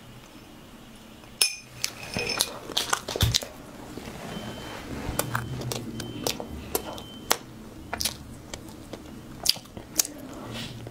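Close-miked chewing and biting of a soft red date (jujube) cake with walnuts: wet mouth smacks and sharp clicks scattered through, the first loud click about a second and a half in.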